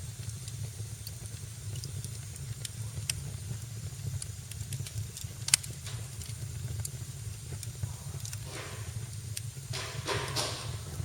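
Fireplace fire crackling over a steady low rumble, with scattered pops, one loud pop about halfway through, and two short bursts of hissing near the end.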